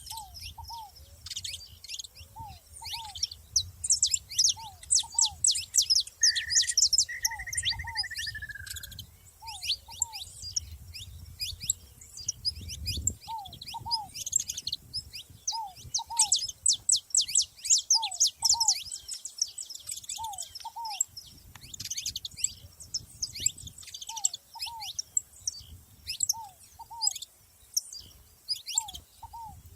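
Saffron finches singing: dense, high, quick chirps and twittering phrases throughout. A lower two-note call repeats about every two seconds. A brief slurred whistle comes about a quarter of the way in, and a low rumble fades out near the middle.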